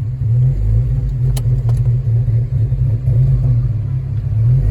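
Engine and road rumble inside the cabin of a big-turbo VW Golf GTI Mk4, a steady low drone while cruising without a hard pull. Two light clicks come about a second and a half in.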